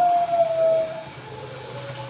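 Zebra dove (Bangkok-line perkutut) cooing: a long held note that slides slightly down in pitch and ends about a second in, followed by softer, fainter notes.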